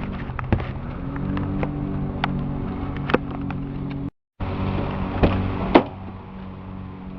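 A vehicle engine running steadily, with scattered sharp clicks and knocks over it and two louder knocks near the end. The sound cuts out abruptly for a moment about four seconds in.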